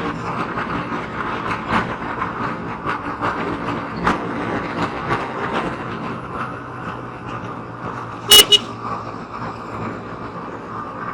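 Road traffic noise with a vehicle horn honking twice in quick succession about eight seconds in.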